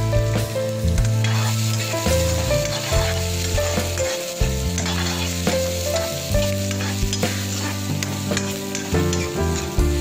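Chopped onions, beetroot, green chillies and garlic sizzling as they fry in oil in a pan, stirred with a steel spoon that scrapes and taps against the pan. Background music with sustained bass notes plays along.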